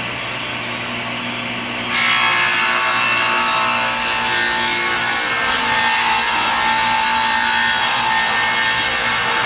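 Power saw running, then cutting into wood about two seconds in, with a loud steady cutting noise from then on.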